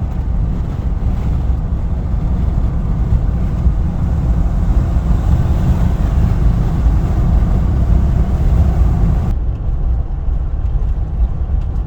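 Steady in-cabin rumble of a Jeep Wrangler's 3.0-litre EcoDiesel V6 and its tyres at cruising speed, driven continuously so the diesel particulate filter can regenerate. The faint upper hiss thins out about nine seconds in.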